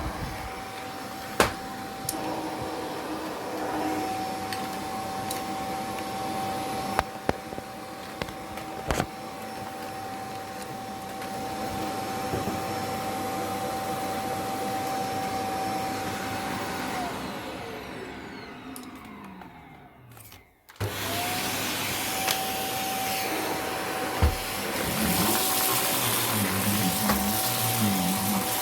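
Vacuum cleaner running with a steady motor whine and a few sharp knocks. About seventeen seconds in the whine falls as the motor spins down, it goes almost silent, then it starts again and the whine rises back up to speed.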